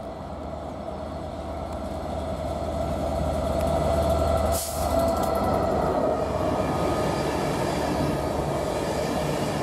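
Class 67 diesel-electric locomotive approaching and running through the station, growing steadily louder over the first four seconds, with a short hiss about halfway through as it draws level; its passenger coaches then follow with a steady loud rumble.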